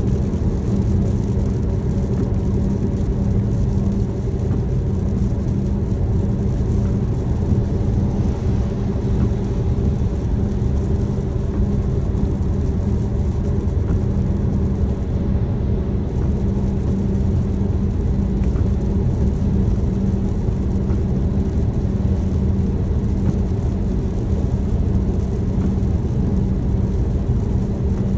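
A car driving along with a steady low rumble of engine and road noise that holds even throughout, with a constant hum underneath.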